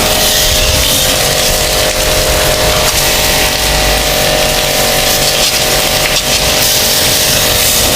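Electric pressure washer running steadily, its motor humming under the hiss of the water jet spraying the air conditioner's outdoor unit.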